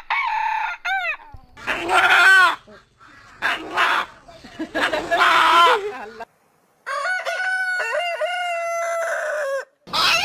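A rooster crowing: several short calls, then one long crow lasting nearly three seconds.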